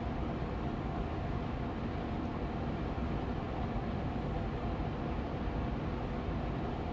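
Austin Air Allergy Machine air purifier fan running steadily on medium speed: an even hum of rushing air, heaviest in the low end, with a faint steady tone in it.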